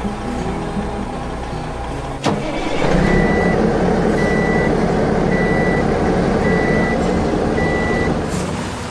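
Heavy vehicle engine sound effect kicks in with a click and runs loudly while a reversing alarm beeps five times, about once a second; background music plays before it starts.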